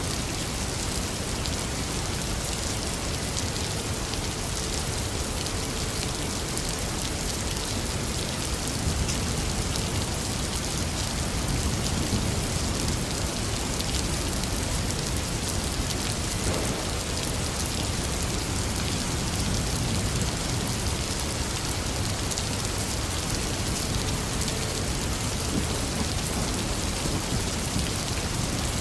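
Steady heavy rainfall, an even wash of noise with scattered sharp drop hits on a surface.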